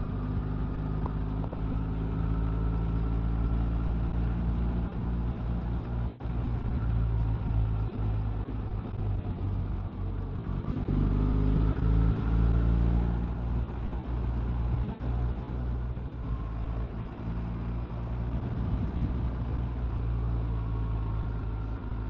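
Motorcycle engine running at road speed, with wind and road noise; its note rises and falls a little partway through.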